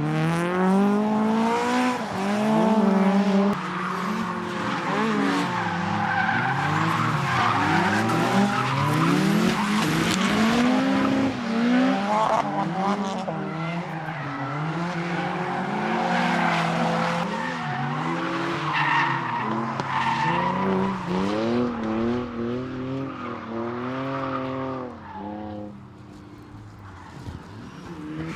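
Drifting cars on track: engines revving up and down with the throttle, with tyre squeal through the slides. The sound drops away for a few seconds near the end before rising again.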